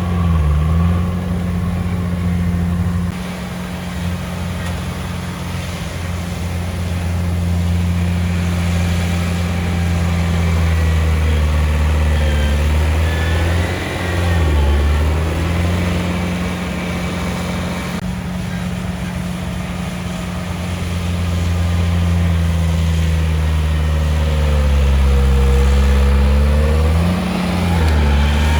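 Komatsu D31P bulldozer's diesel engine running steadily under work, its note dipping briefly about halfway through and again near the end before picking back up.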